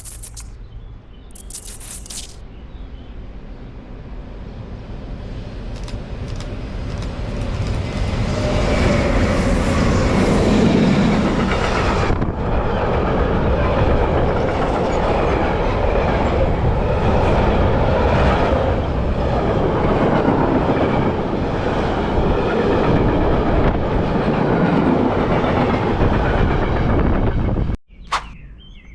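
A train passing close by, its wheels clicking rhythmically over the rail joints. It builds up over the first several seconds, runs loud and steady, then cuts off abruptly near the end.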